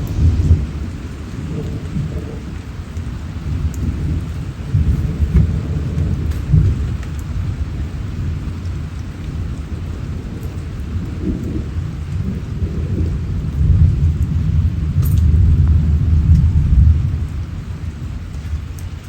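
Thunder rumbling over steady rain, rising and falling, swelling to its loudest for a few seconds near the end and then dying away.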